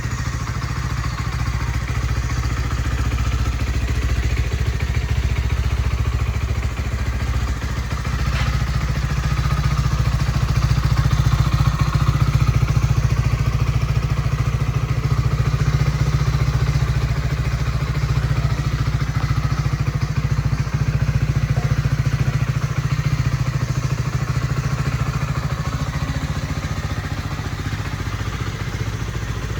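Voge R 125 motorcycle's single-cylinder 125 cc engine running steadily, getting a little louder in the middle.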